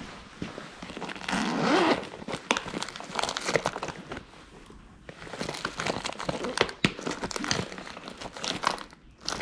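Crinkly material being handled, rustling and crackling with many small irregular clicks. It comes in two spells, one starting about a second in and another starting around five seconds in.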